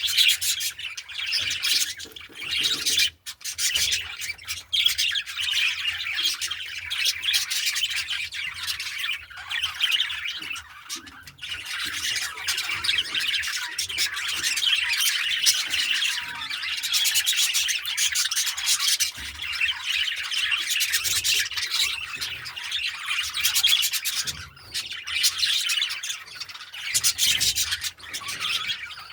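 A flock of budgerigars chattering and squawking continuously, many birds calling over one another, with a few brief lulls.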